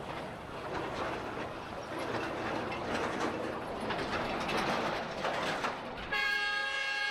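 Street traffic noise from riding among motorbikes in city traffic, a steady rushing haze with passing engines. About six seconds in, a sustained sound made of several steady tones starts abruptly and holds.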